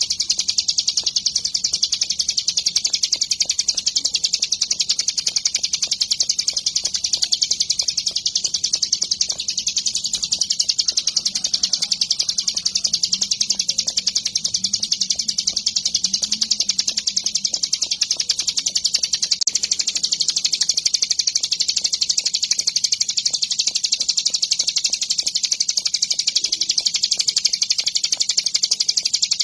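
Ciblek gunung, a prinia songbird, singing a fast, continuous high-pitched trill of evenly repeated notes.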